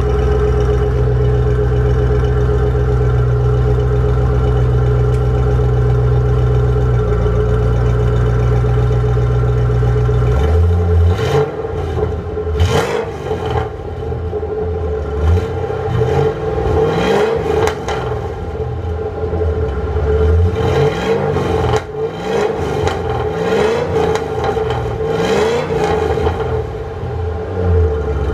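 Car exhaust fitted with GT500 mufflers on an X-pipe: the engine idles steadily, then from about ten seconds in it is revved repeatedly in quick blips, each rising and falling back to idle. The exhaust note has more of a tone and is not as loud as the previous setup.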